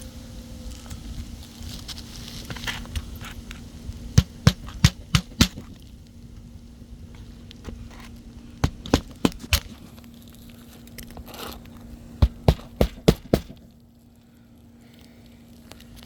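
Hammer blows on an asphalt shingle roof during a shingle replacement: three quick runs of four or five strikes each, about four a second, over a steady low hum.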